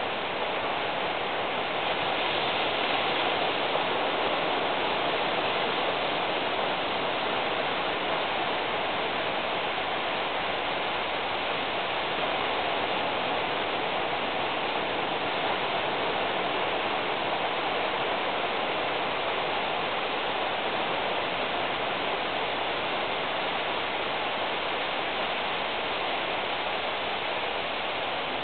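Steady rain falling, an even hiss with no thunder claps or other sudden sounds.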